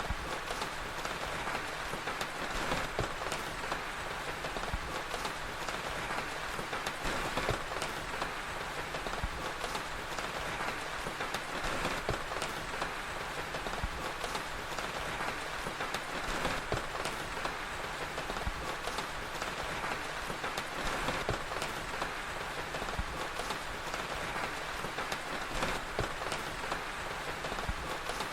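Steady rain with scattered sharp crackles of a wood fire, an even unbroken ambience.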